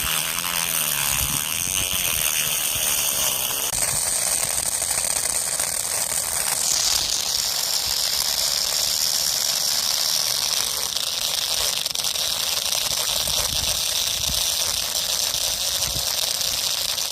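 A small motor-driven mechanism running with a steady rattling whir. A high whine in it changes pitch about 4 seconds in and again about 7 seconds in.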